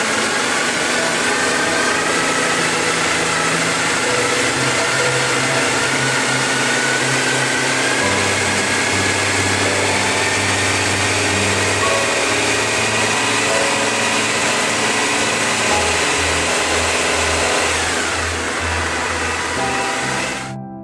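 Triumph Bonneville SE's parallel-twin engine running with its revs climbing slowly for about twelve seconds, then holding. Background music plays underneath.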